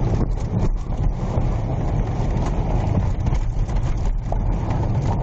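A vehicle running, with a steady low rumble and wind buffeting the microphone.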